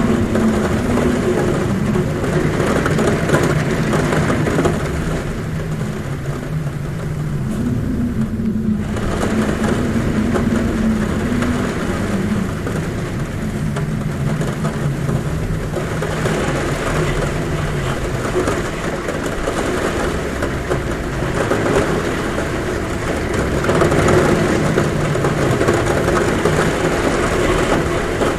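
Heavy rain on a roof with a low, wavering wind hum at a window, swelling and easing in slow gusts.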